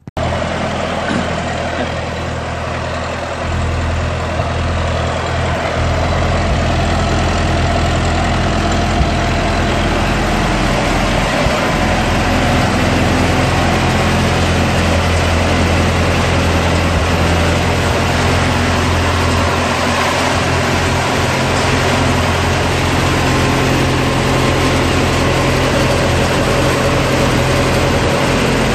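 Ford Model T's four-cylinder engine running steadily at idle, a little louder after a few seconds.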